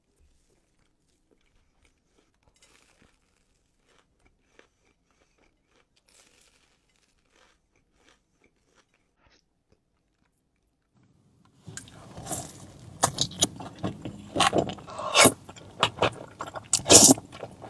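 Near silence with a few faint clicks, then about twelve seconds in, loud close-miked crunching and chewing of crisp fried food, with many sharp, irregular crunches.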